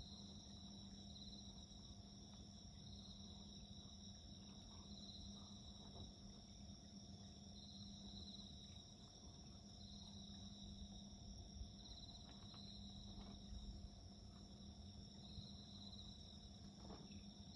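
Crickets and other insects singing steadily and faintly, several at different pitches, one swelling and fading about every two seconds. A few faint crackles from a wood campfire.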